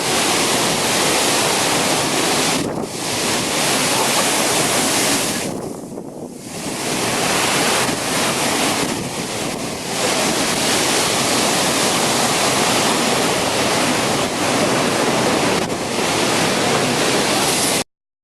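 Typhoon wind blowing hard in gusts and buffeting the microphone, with brief lulls about three and six seconds in. It cuts off abruptly near the end.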